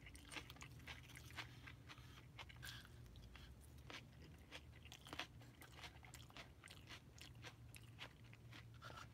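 Faint chewing of a shrimp and rice bowl, with soft, scattered mouth clicks and crunches.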